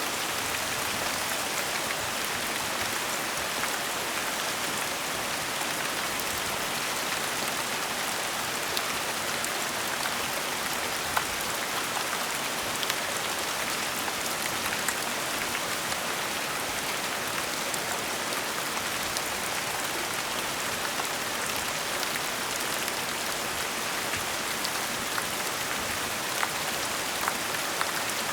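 Gentle steady rain falling on a surface: an even hiss with scattered individual drops ticking.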